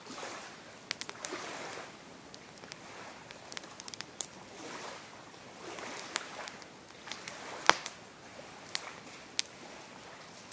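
Campfire burning: burning wood crackling and popping in irregular sharp snaps over a soft, steady hiss, with one louder pop about three-quarters of the way through.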